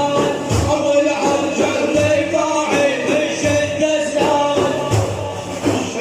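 Religious chanting of a Prophet-praise ode by a male voice, held on long wavering notes, over frame drums beating a steady rhythm.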